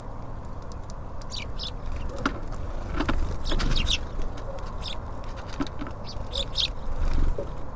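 Small songbirds at a feeder giving short, high chirps in small clusters, with sharp clicks of birds pecking and landing on the feeder over a steady low rumble.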